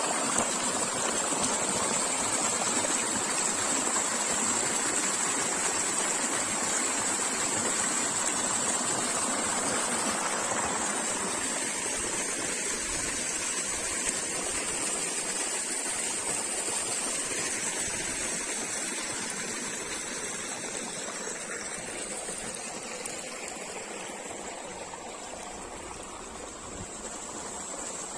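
Water flowing with a steady rushing, slowly getting quieter over the second half.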